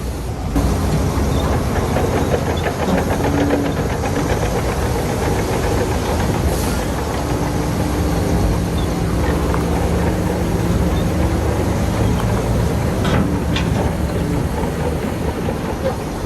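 Shantui crawler bulldozer's diesel engine running steadily under load, with its steel tracks clanking.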